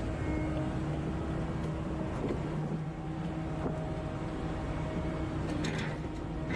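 Heavy forestry machine's diesel engine running steadily under load with a constant hum, with a short burst of high-pitched squeaks and cracks near the end.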